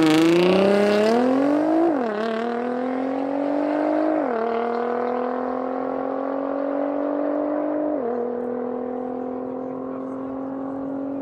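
Nissan GT-R R35's twin-turbo 3.8-litre V6 accelerating hard at full throttle, the pitch climbing through each gear and dropping at quick upshifts about two, four and eight seconds in. The sound fades steadily as the car pulls away.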